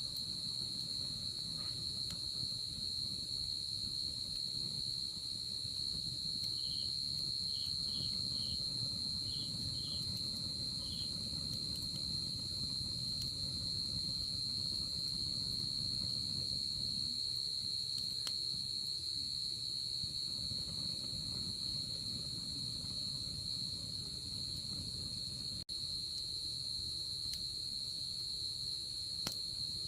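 Night insects: a steady, unbroken high-pitched trill from crickets, with a run of short chirps from another insect about a third of the way in. Faint occasional crackles from a wood fire. The sound cuts out for an instant near the end.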